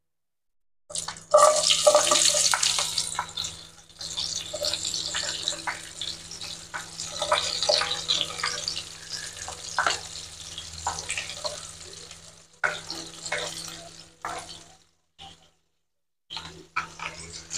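Chopped garlic, shallots and red chilies hitting hot cooking oil in a frying pan and sizzling, loudest as they go in about a second in, then frying steadily, with clicks and scrapes of a ladle pushing them off a plastic cutting board. The sound cuts out briefly a couple of times near the end.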